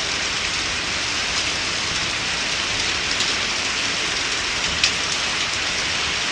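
Steady rain falling, an even hiss of drops hitting the ground and surfaces, with one sharp tick about three-quarters of the way through.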